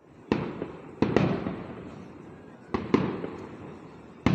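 Fireworks going off: about six sharp bangs, some in quick pairs, each trailing off into a fading crackle and rumble.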